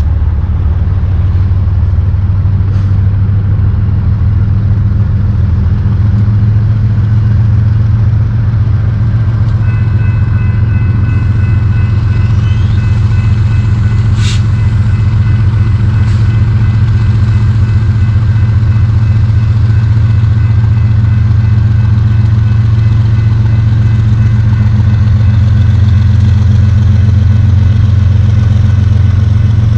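BNSF freight train's diesel locomotives running, a loud steady low engine rumble. Steady high whining tones join about a third of the way in, with a single sharp click about halfway.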